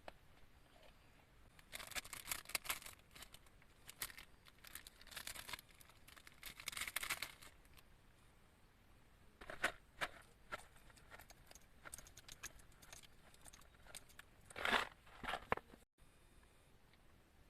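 Handling noises: several short bursts of crinkling and rustling, the last one the loudest, separated by quiet.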